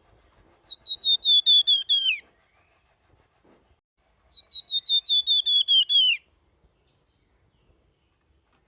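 Flamboyan songbird giving flute-like whistled song in two phrases. Each phrase is a quick run of about six high notes a second that ends in a downward slur.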